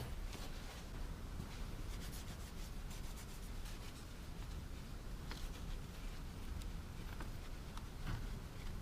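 A towel rubbing and wiping over engine-bay parts, a faint irregular scuffing.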